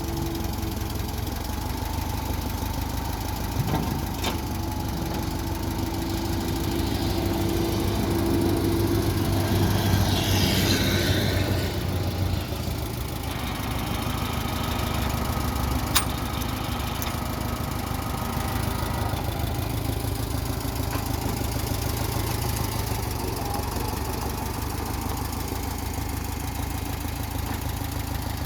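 Case 300 tractor engine running steadily at idle, growing a little louder for a few seconds around the middle, with a single sharp click later on.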